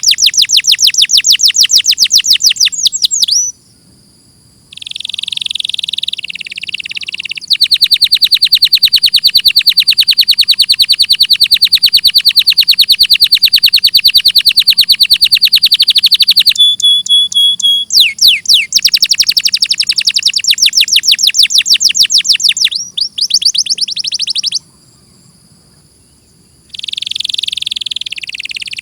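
Domestic canary singing loud, fast rolling trills of rapidly repeated high notes, with short softer phrases and two brief pauses.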